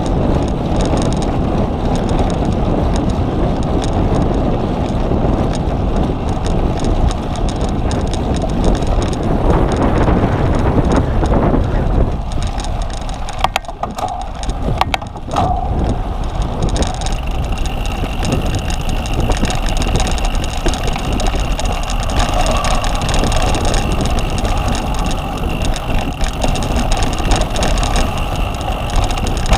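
A cyclocross bike being ridden hard over rough ground: steady rumble and rattle with wind on the microphone. About halfway through the noise briefly drops and a few sharp clicks are heard.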